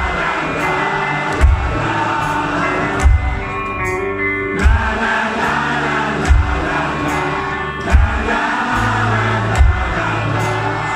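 Live rock band playing with singing, a heavy kick-drum beat landing about every second and a half.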